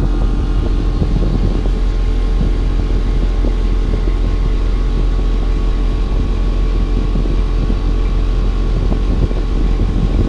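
TCL ductless split air conditioner running noisily: a loud, steady low hum with a few constant tones over it and a fluttering rumble underneath.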